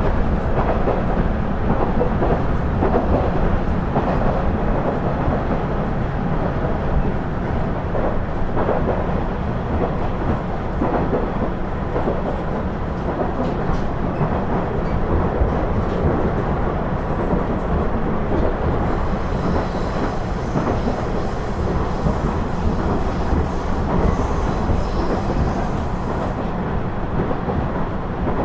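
Interior running sound of a KiHa 112 diesel railcar under way: steady rumble of the diesel engine and the wheels on the rails, with occasional light rail-joint clicks. A faint thin high whine joins in from about two-thirds of the way through and stops shortly before the end.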